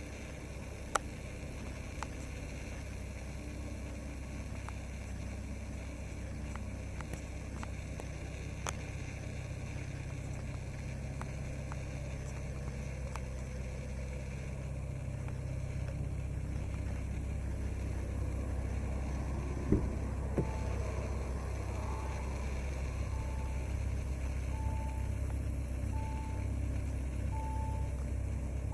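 Bentley Continental GT's 6.0-litre twin-turbo W12 engine idling with a steady low rumble. From about two-thirds of the way in, a short electronic beep repeats about every second and a half.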